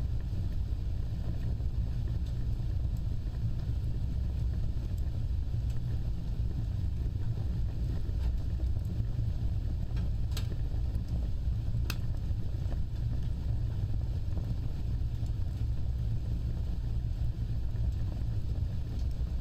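Fire burning with a steady low rumbling roar, and two sharp crackling pops about ten and twelve seconds in.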